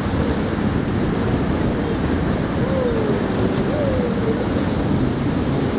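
Rushing river water mixed with wind buffeting the microphone, a loud, steady rush. About halfway through come two faint wavering calls, one after the other.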